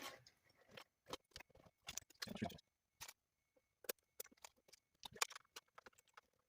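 Scattered light clicks and taps at irregular intervals, from hands handling a 1/10 RC car and its small parts while checking the reassembly.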